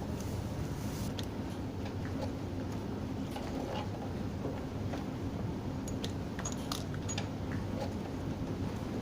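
Steady low mechanical hum with scattered light clicks and clinks.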